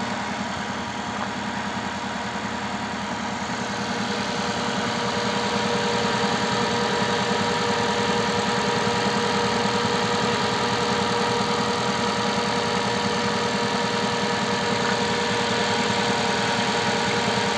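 Daewoo Gentra petrol engine running at a steady fast idle of about 1400 rpm just after a cold start at −20 °C, heard from the open engine bay. The raised warm-up idle, set by reflashed engine software, is running smoothly with no extraneous noise.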